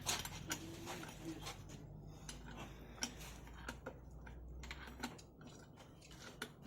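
Metal hand tools, spanners, being handled: scattered, irregular light clicks and clinks of metal on metal.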